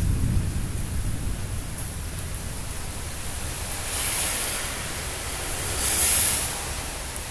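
Steady hiss of rain in a thunderstorm. A low rumble of thunder dies away over the first second or so, and the hiss swells louder twice, about four and six seconds in.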